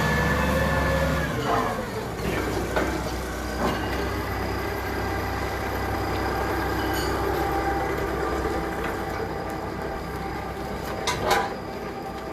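Forklift running steadily, with a whine in the first second and a half that then drops away, and a few scattered metal knocks.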